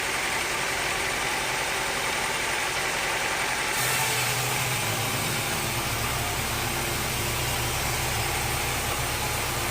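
Sawmill machinery running steadily with an engine-like hum. About four seconds in, a deeper low hum comes in and carries on.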